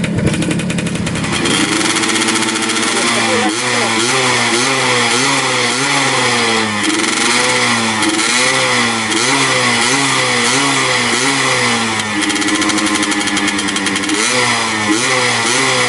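Two-stroke motorcycle with a gutted (bobokan) exhaust, idling and then revved in repeated quick throttle blips, the pitch rising and falling over and over. It settles back to a steady idle for a couple of seconds before more blips near the end.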